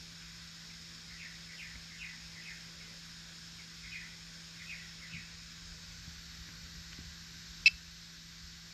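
Small birds chirping, a run of short, quick chirps over a faint steady low hum. One sharp click comes near the end and is the loudest sound.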